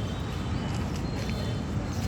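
Steady low rumbling outdoor background noise, with faint high thin tones above it.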